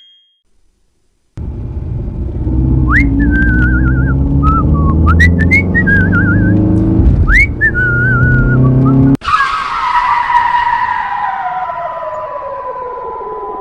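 Car engine sound effect running steadily, with a whistled, warbling tune over it. About nine seconds in it cuts to a long falling whistle-like sweep, leaving a steady high tone.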